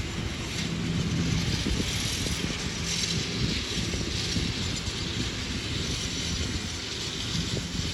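Old Ford tractor engine running steadily, with wind buffeting the microphone.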